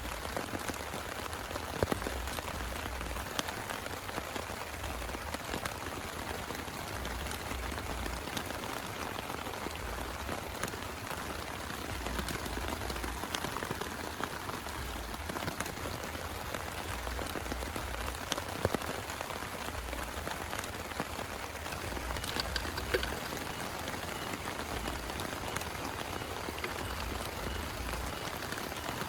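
Steady heavy rain falling, with a few louder single drop hits standing out now and then.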